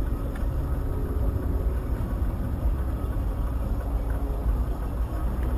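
A car driving along: steady low rumble of road and engine noise.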